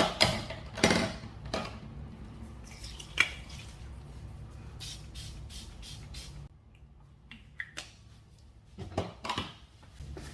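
Scattered knocks and clatters of small objects being handled, the loudest near the start, over a low steady hum that cuts out about six and a half seconds in.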